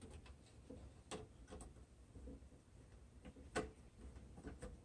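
Hand screwdriver driving screws back into a license-plate birdhouse: faint, irregular small clicks and ticks, the sharpest about three and a half seconds in.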